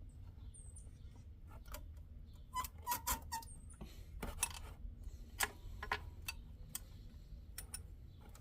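Irregular metallic clicks and clinks of a wrench working the 10mm fan and water-pump-pulley fasteners on a Nissan KA24E engine, a cluster of sharper knocks coming from about two and a half to six seconds in.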